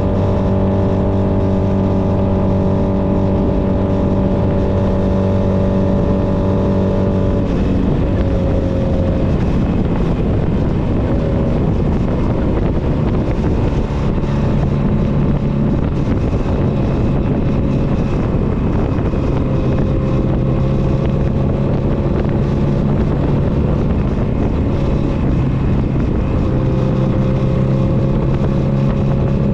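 Honda Nighthawk 250's parallel-twin engine running under way, with a steady stack of engine tones over road and wind noise. About a quarter of the way in the engine note breaks off and shifts, then settles into a steady note again for the rest.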